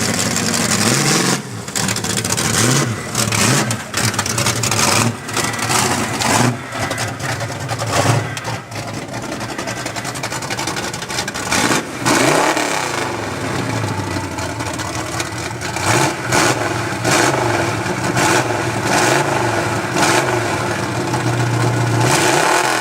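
Snowmobile engine revving up and down repeatedly, its pitch rising and falling many times.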